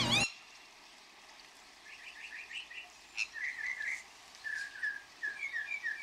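A small bird chirping in quick runs of short, repeated notes, starting about two seconds in, with one sharp click a little after three seconds.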